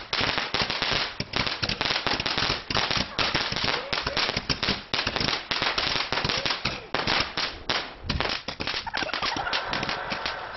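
Consumer fireworks going off on the ground: a rapid, dense string of sharp crackling pops and bangs that thins out in the last few seconds.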